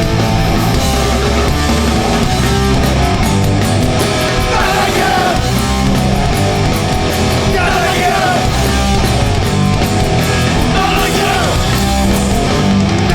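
Hardcore punk band playing live: distorted electric guitars, bass and drums, with shouted singing coming in about four seconds in.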